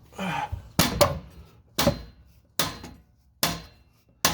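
Hammer blows on metal, about five sharp ringing strikes a little under a second apart, knocking at a stuck exhaust part.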